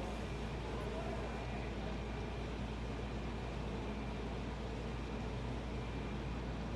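Steady low engine rumble from machinery running without a break, with a faint thin whine above it.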